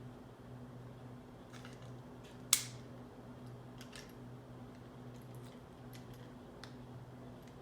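Small plastic clicks from handling a Toyota smart key fob, with one sharp snap about two and a half seconds in. A steady low hum runs underneath.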